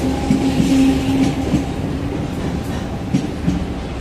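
Electric commuter train cars running past along the platform, the wheels clacking over rail joints in pairs. A steady hum sounds under the clacks and stops about a second and a half in.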